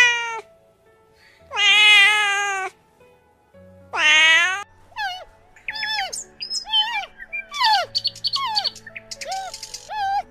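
Cat meowing: three drawn-out meows in the first half, followed by a quick run of short, higher squeaky calls that rise and fall.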